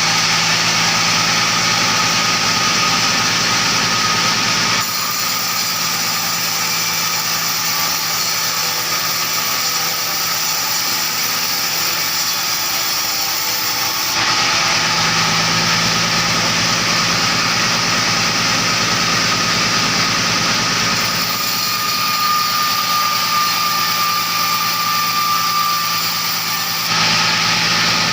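Chainsaw running steadily under load, cutting timber, its engine note and cutting noise changing abruptly a few times.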